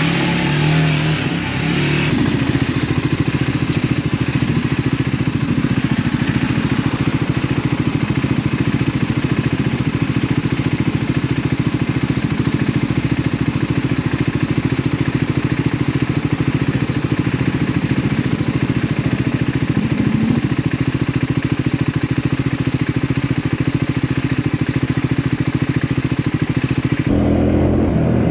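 Triumph Scrambler 400X's single-cylinder engine running at steady, low-to-middling revs through its stock exhaust while the bike is ridden off-road. There is extra clatter and hiss in the first couple of seconds, and the sound changes abruptly about a second before the end.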